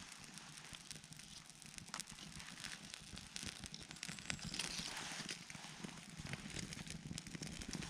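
Wood campfire crackling, with many small irregular pops over a steady hiss that grows louder about halfway through.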